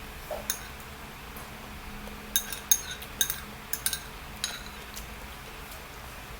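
Cutlery clinking against a dish: a run of about ten sharp, ringing clinks in the middle, with a couple of lighter taps near the start.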